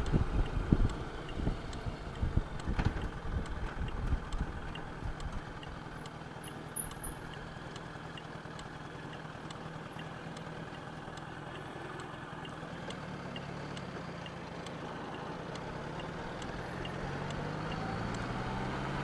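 Honda Gold Wing motorcycle engine running on the move, with wind buffeting the microphone during the first few seconds. The engine note rises gradually over the last several seconds.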